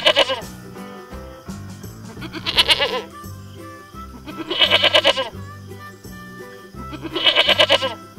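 Goat bleating, a wavering call repeated four times about every two and a half seconds, over background music with a steady beat.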